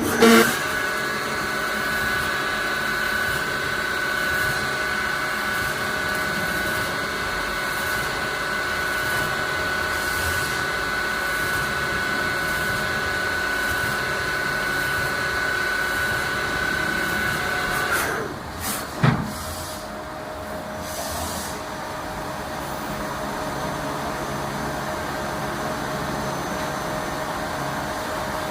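CNC machine running with a steady whine of several held tones. About 18 seconds in the whine stops, two short knocks follow, and a quieter steady hum carries on.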